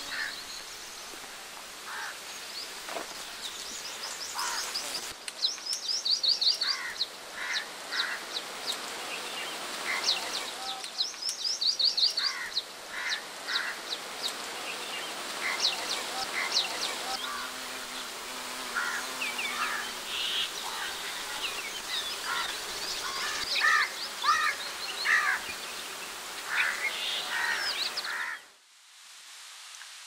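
Several birds calling and chirping, with quick runs of high chirps and shorter lower calls over outdoor background noise. About two seconds before the end it cuts to a quieter, steady hiss.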